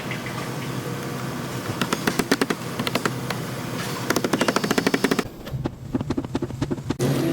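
Rapid, uneven series of sharp knocks on metal during car body repair, over a steady low hum.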